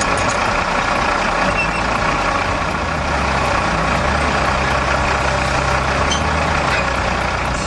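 Heavy machine's engine running steadily: a continuous low drone with a dense mechanical rumble above it.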